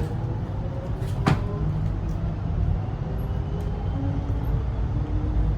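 Moving train heard from inside the carriage: a steady low rumble with a faint whine that slowly shifts in pitch. A single sharp knock comes about a second in.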